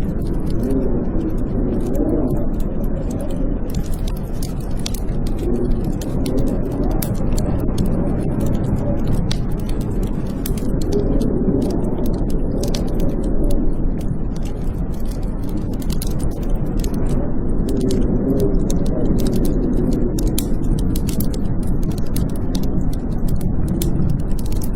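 Blizzard wind howling in slow swells that rise and fall in pitch, with a wood fire crackling in many small, sharp pops.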